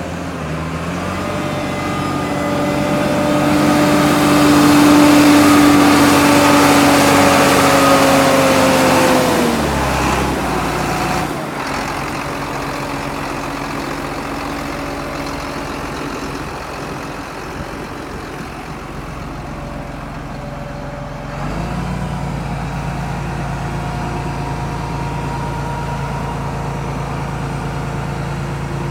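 John Deere 8410T tractor's six-cylinder diesel engine being run up: it revs up about a second in and holds a steady high speed, drops back to idle at about the ten-second mark, then is raised to a moderate speed again near the two-thirds point and held.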